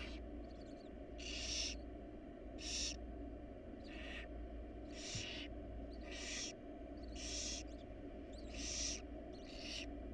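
Barn owls in the nest box giving harsh hissing, snore-like calls of the kind nestlings use to beg for food, about one every second, each lasting about half a second. A steady low hum runs underneath.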